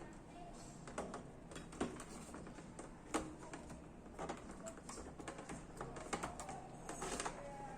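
Irregular light clicks and taps of a small screwdriver and hands working on a plastic RC toy tank, with a few sharper clicks among them.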